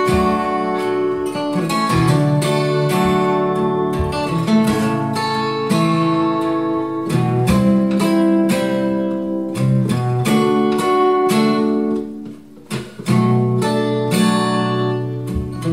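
Acoustic guitar playing strummed chords in an instrumental passage of a song, with no singing. The playing thins out briefly about three-quarters of the way through, then comes back in.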